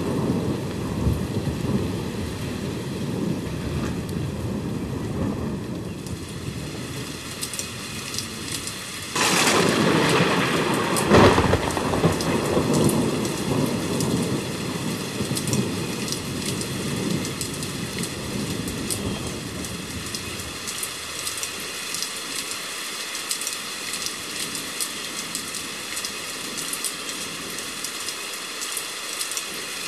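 Steady rain with rolling thunder. A loud thunderclap breaks about nine seconds in, with a sharp crack shortly after, and its rumble dies away over the next several seconds, leaving rain pattering with distinct drops.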